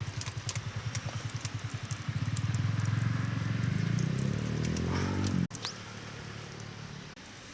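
A small engine running with a quick low pulsing that speeds up and grows louder, then cuts off abruptly about five seconds in, leaving a fainter low hum.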